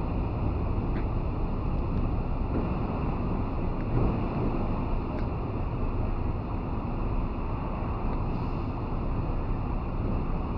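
Steady road and wind noise from a Chevrolet Malibu on the move, with a few faint ticks along the way.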